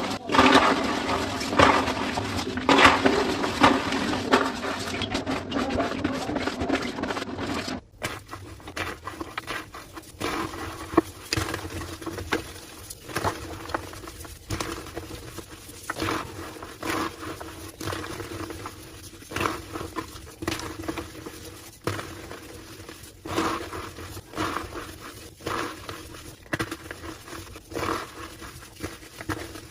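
Homemade gym chalk slabs being crushed, with squeaky crunching. It is dense and louder for about the first eight seconds, then breaks off suddenly into quieter, scattered crunches.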